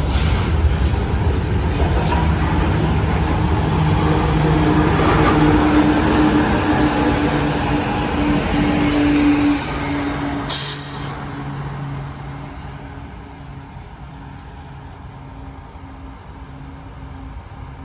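Freight train cars rolling past on the rails, a steady clattering rumble with some wheel squeal. About ten seconds in the noise drops off as the train passes and fades, leaving a fainter low hum.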